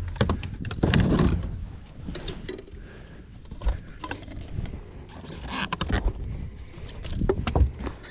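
Irregular knocks, clicks and rubbing of fishing rods and gear being handled and shifted about in a small boat, with louder clatters about a second in and again near the end.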